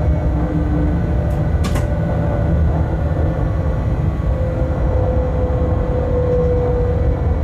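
Inside the cab of a Bombardier Traxx BR 186 electric locomotive under way: a steady low rumble of the running gear on the track, with a whine from the drive that grows clearer in the second half. Two short clicks about a second and a half in.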